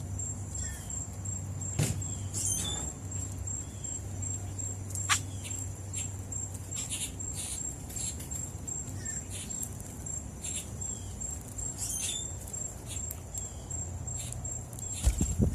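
Outdoor dawn ambience: a steady high-pitched insect trill, with faint short bird chirps and a few sharp taps, the loudest near the end.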